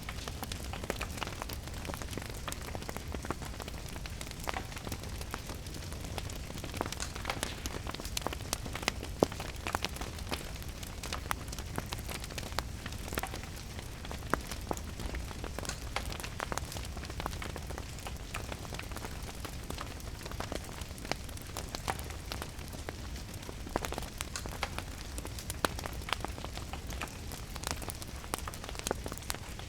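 Crackling wood fire with steady rain: many small irregular pops and clicks over an even hiss and a constant low rumble.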